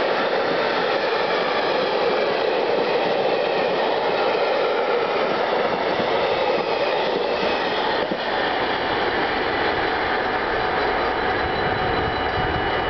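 Freight train's container flat wagons rolling past at speed with a dense rumble and rattle, easing about eight seconds in as the last wagons clear. Through it the level-crossing bell rings steadily, heard more plainly once the train has passed.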